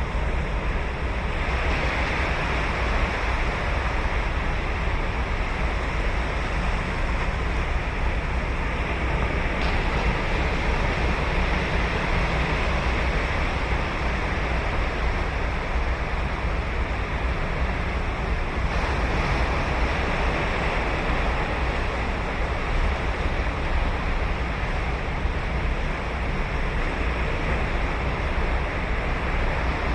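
Ocean surf breaking on a sandy beach, a steady wash of waves with a deep rumble, swelling into a brighter hiss as a wave breaks about a second and a half in and again a little past halfway. Some wind on the microphone.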